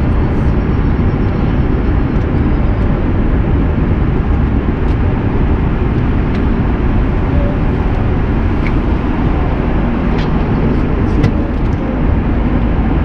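Steady cabin noise of an Airbus A330-300 in flight: engine and airflow noise heard from inside the cabin, with a few faint clicks.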